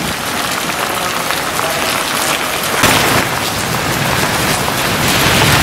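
Heavy rain pouring onto a paved surface, a dense steady hiss with a brief louder swell about three seconds in.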